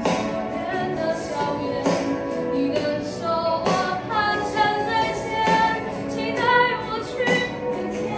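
A voice singing a melody over music with a steady beat about once a second.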